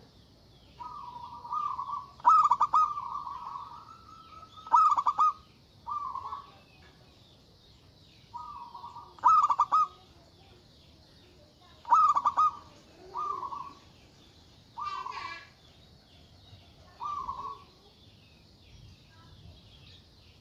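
Zebra dove (perkutut) cooing: short phrases of rapid, pulsed coos, repeated every two to three seconds. Faint high chirping runs underneath.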